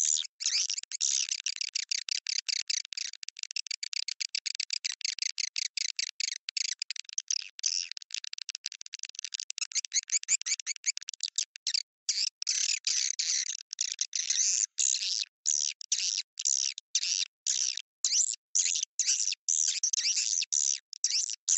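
Edible-nest swiftlet lure call (suara panggil) played back: dense, high-pitched twittering chirps in rapid runs, broken every fraction of a second by short silent gaps.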